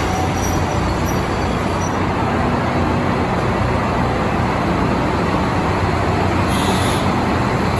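KiHa 183 series diesel railcar train pulling slowly into the platform, its diesel engines running with a steady rumble. A short hiss of air sounds about six and a half seconds in.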